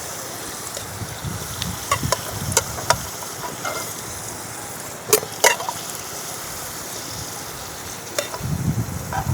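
Food sizzling in a pan while a utensil stirs it, with several sharp clinks of metal on the pan over a steady hiss.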